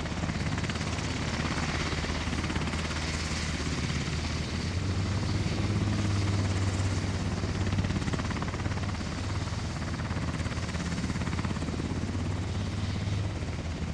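UH-60 Black Hawk helicopter running steadily, its engines and rotor making a constant turbine-and-rotor noise with a strong low hum, swelling slightly in the middle.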